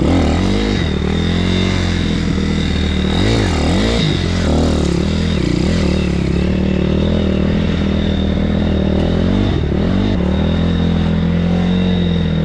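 BSE PH 150 pit bike's 150 cc single-cylinder engine running at a mostly steady speed, with short blips of the throttle about three to four seconds in and again near ten seconds.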